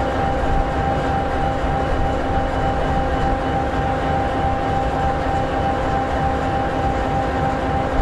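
EMD 16-710G3B sixteen-cylinder two-stroke diesel prime mover of an SD60E locomotive idling steadily: a low rumble with a steady tone above it.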